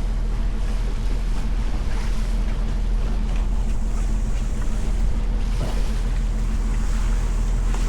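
Boat engine running at a steady speed, a constant low hum, with wind on the microphone and water noise.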